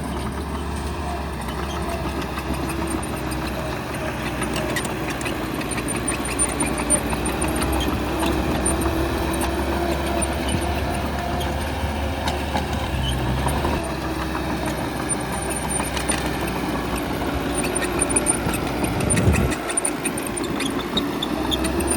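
Bulldozer's diesel engine running steadily, with a few short knocks over it and a brief dip in the low rumble about three-quarters of the way through.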